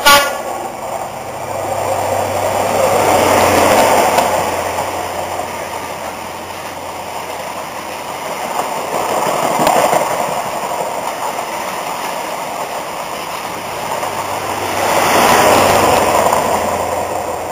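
First Great Western High Speed Train running through at speed: a continuous rush of wheels on rail and air around the coaches, with the diesel power cars' engines. It is loudest about four seconds in and again near the end, as the power car at each end of the train passes.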